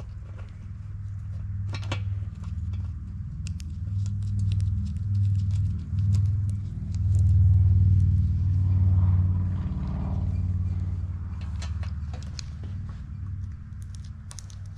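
Low rumble of a motor vehicle running nearby, swelling to its loudest around the middle and then easing off, with scattered light clinks.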